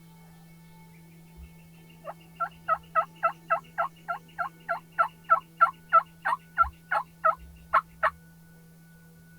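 Wild turkey yelping: a long, even series of about twenty yelps, three to four a second, lasting about six seconds from two seconds in.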